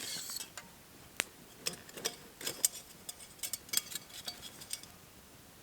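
Small campfire crackling, with irregular sharp pops coming thick and fast through the middle and thinning out near the end.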